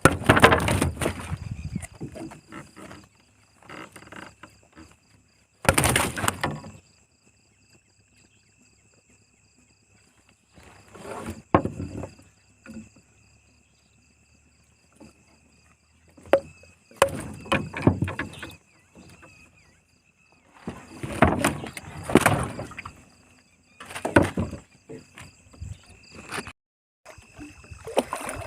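Night insects trilling steadily, broken every few seconds by loud bursts of water splashing.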